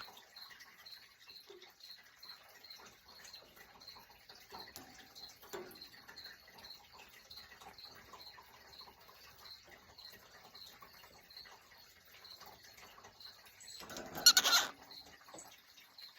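A cockatiel gives one short, loud, harsh call about fourteen seconds in, over a faint, steady ticking about twice a second and a few small rustles.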